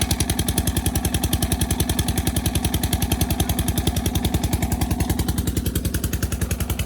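Krimo 35 hp hot-bulb oil engine running steadily, with an even, rapid exhaust beat.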